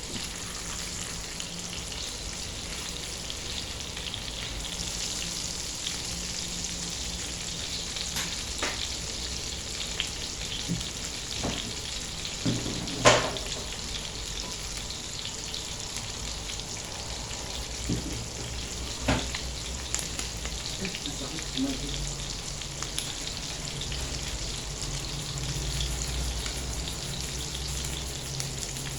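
Chicken fillet frying in a pan with a steady sizzle. A few sharp knocks and clatters come through it, the loudest about halfway through.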